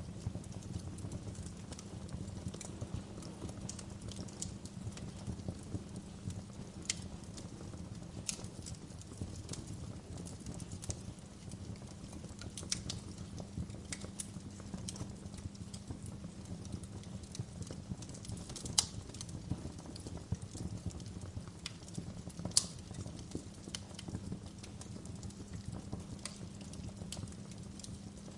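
Wood fire in a fireplace crackling: a steady low rumble with scattered sharp pops and snaps, two of them louder in the second half.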